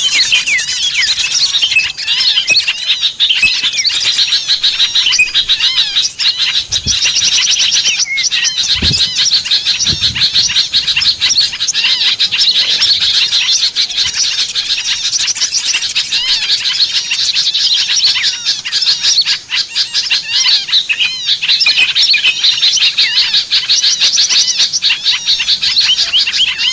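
Many small birds chirping and twittering in a dense, unbroken chorus of quick, high-pitched calls and trills: the kind of small-bird sound used as lure audio to call wild small birds in.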